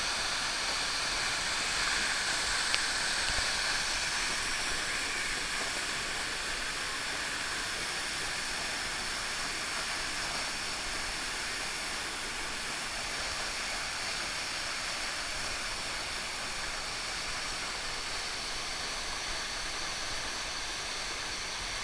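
Waterfall rushing, a steady hiss of falling water.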